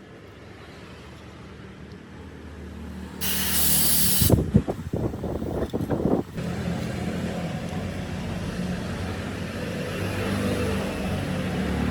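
A motor vehicle engine running steadily and gradually getting louder. About three seconds in comes a loud hiss of air lasting about a second, followed by a couple of seconds of rattling knocks.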